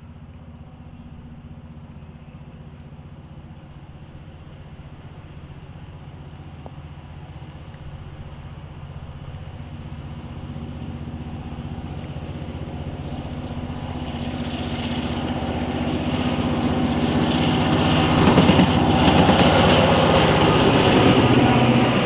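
Diesel freight locomotive approaching under power, its engine drone growing steadily louder until it is close by in the last few seconds, with wheel and rail noise building in over the second half.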